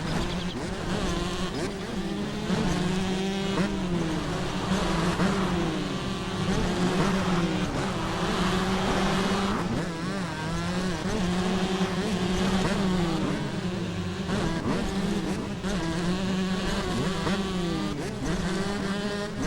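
Several motocross bike engines revving at once, their buzzing pitch climbing and dropping again and again as the riders open the throttle and shift, over a steady low drone.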